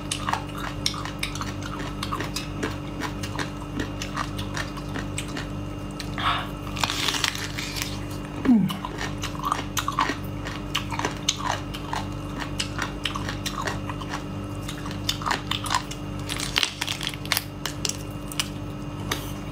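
Close-up eating sounds: a person biting into and chewing a large piece of crunchy seafood, with many small wet clicks and crunches and a few louder bursts of crunching.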